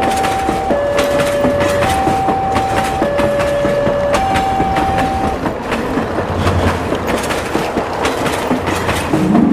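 A train rolling, its wheels clicking over the rail joints, with a two-tone signal alternating high and low about once a second that stops about five seconds in.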